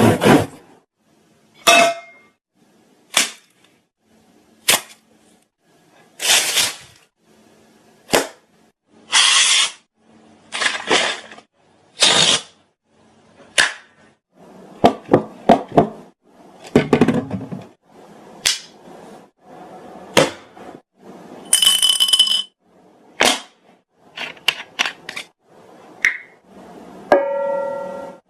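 A person making a string of short sounds with the mouth: sharp clicks and pops, brief hisses, and a couple of short pitched squeaks toward the end, each separated by a moment's pause.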